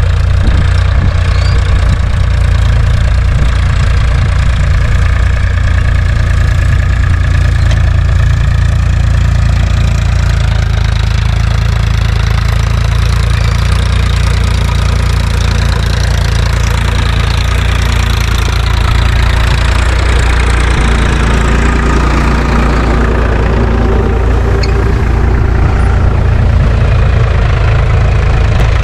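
Diesel tractor engine running steadily and loudly while plowing a field.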